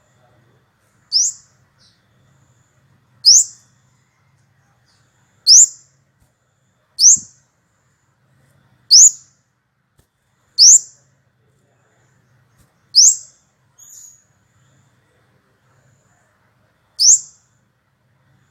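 Kemade bird giving a short, high, sharply rising call, repeated eight times at intervals of about two seconds, each call alike. It is a lure call meant to draw other kemade into answering.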